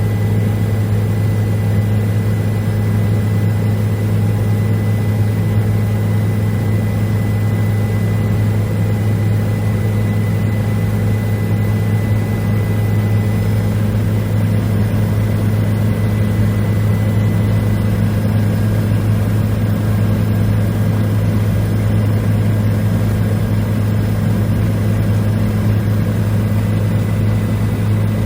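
Helicopter engine and rotor running with a loud, steady low drone and a faint thin high whine above it.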